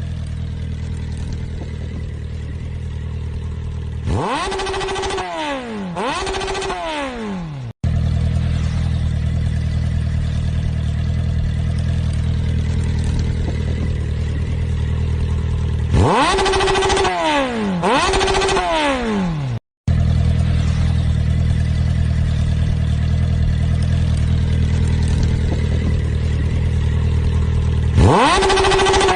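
Recorded motorcycle engine sound, most likely the challenge's shared audio track: a steady idle, then a few quick revs whose pitch falls back each time. The same idle-and-rev sequence repeats three times, about every 12 seconds, with brief cut-outs between clips.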